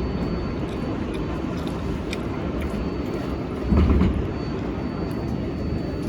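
Steady low rumble of an R188 subway car heard from inside, with a faint thin high whine and a few light clicks. A brief louder thump comes about four seconds in.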